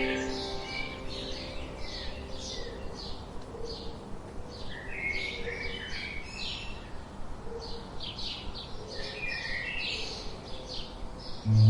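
Small songbirds chirping and tweeting in quick repeated short notes over a soft, steady background hiss. A fading music note lingers in the first second, and a plucked acoustic guitar comes in loudly just before the end.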